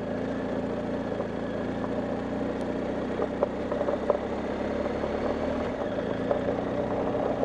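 BMW R1250GS Adventure's boxer-twin engine running steadily at low revs as the bike is ridden slowly over a dirt track, with a few small clicks about three to four seconds in.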